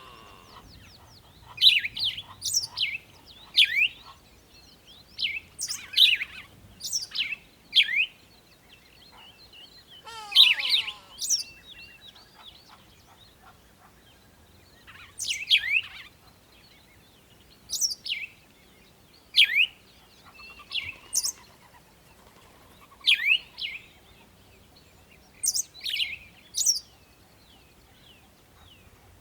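Birds chirping: short, sharp calls that sweep down in pitch, coming in quick groups of two or three every couple of seconds.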